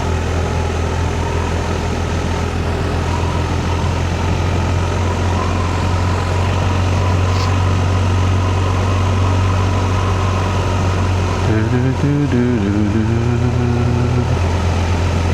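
Motorcycle engine running at a steady cruise under constant wind rush. About twelve seconds in the note shifts briefly as a voice hums over it.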